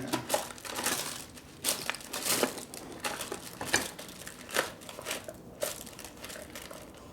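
Rummaging through a container of loose nuts and small hardware: irregular rustling with scattered light clicks and clinks of metal parts.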